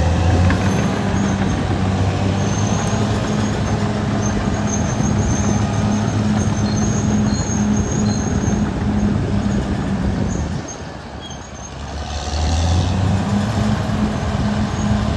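Caterpillar D6R XL bulldozer's diesel engine running steadily, easing off for about a second roughly two-thirds of the way through and then picking back up.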